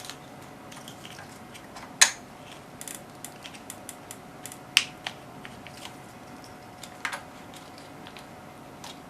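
Small clicks and taps of electronic connectors being handled and reseated inside an instrument, with three sharper clicks about two, five and seven seconds in. A faint steady whine sits underneath.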